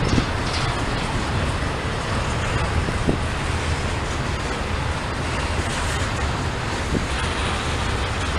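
Steady low rumble with an even hiss of a passing vehicle, unbroken throughout.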